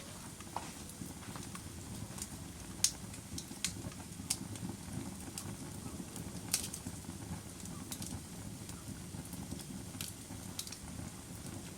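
Log fire burning with a steady low rush of flames and irregular sharp crackles and pops, the loudest about three seconds in and again near seven seconds.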